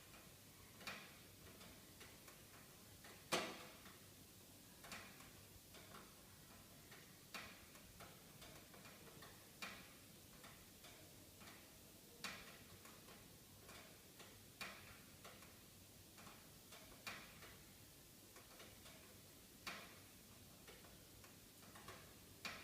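Wood fire in a fireplace crackling quietly: sharp pops about every two seconds over a soft hiss, with smaller crackles between and one louder pop about three seconds in.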